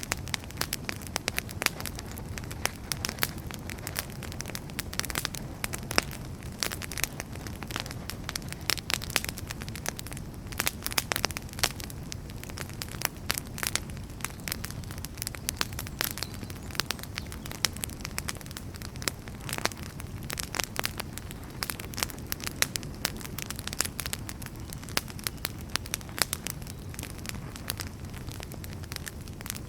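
Wood fire crackling: many irregular pops and snaps from burning firewood over a steady low rumble of the flames.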